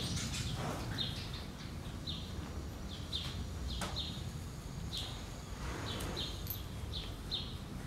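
Small birds chirping, short high chirps repeating about once a second, over a low steady background rumble.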